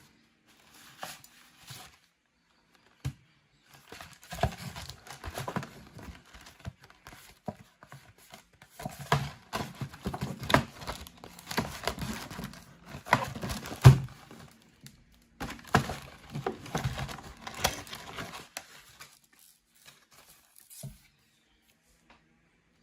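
Packaging being handled and unwrapped close to the microphone: irregular crinkling and tearing in bursts, with sharp knocks among them, the loudest about 14 seconds in.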